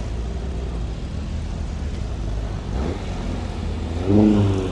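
Car engines running close by with a steady low rumble. About four seconds in, a short, louder pitched sound rises over it.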